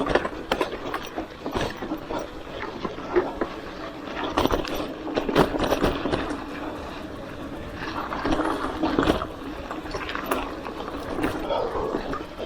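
Hardtail mountain bike rolling over rough trail: steady tyre noise with many irregular knocks and rattles from the bike.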